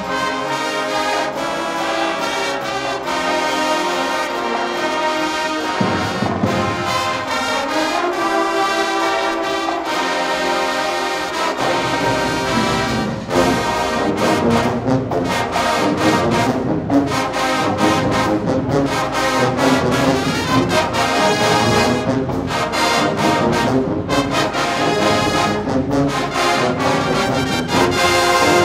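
High school marching band playing, its brass section carrying the tune; the sound grows fuller in the bass about twelve seconds in.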